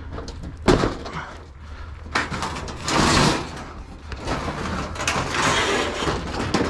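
A sharp bang about a second in, then clattering and scraping as objects are handled and shifted while being loaded onto a truck.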